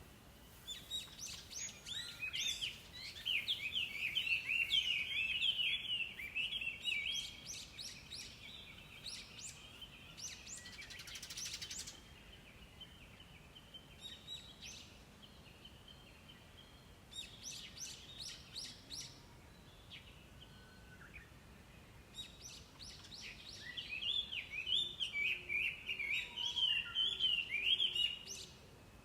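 Chinese hwamei (gabichō) singing: two long bouts of loud, rapid, varied whistled phrases, one near the start and one near the end, with shorter high chirps in between.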